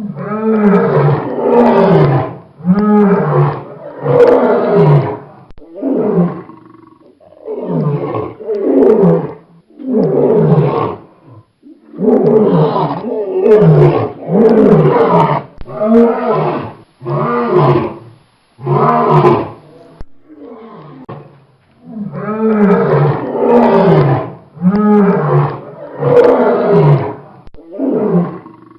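Lion roaring: a long run of deep, loud calls, each about a second long and falling in pitch, repeated with brief pauses between bouts.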